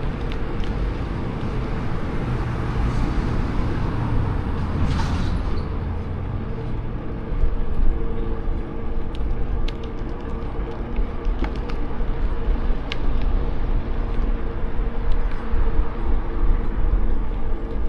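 Wind buffeting the microphone of a moving bicycle, with a motor vehicle passing close by about five seconds in.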